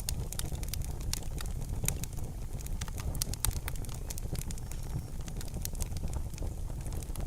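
Wood fire crackling in a fireplace: frequent, irregular sharp pops and snaps over a steady low rumble of burning.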